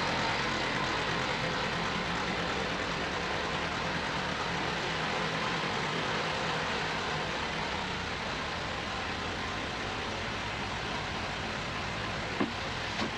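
Ford 1710 tractor's three-cylinder diesel engine running steadily, slowly getting a little quieter.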